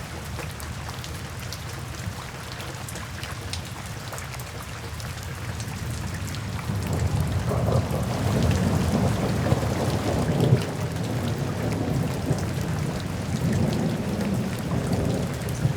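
Steady rain with many distinct drop hits, and a low rumble of thunder that swells about halfway through and keeps rolling to the end.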